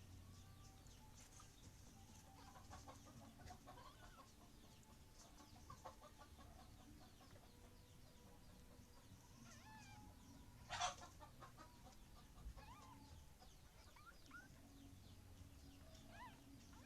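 Near silence with faint, short chirping animal calls scattered through, and one sharp click about eleven seconds in.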